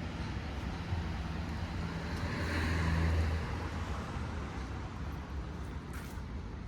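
A motor vehicle passing close by in the street. Its low engine hum and tyre noise swell to a peak about three seconds in, then fade away.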